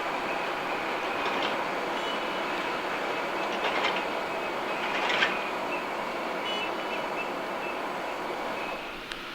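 Jet airliner engines running with a steady rushing noise and a faint high whine, briefly louder twice around the middle.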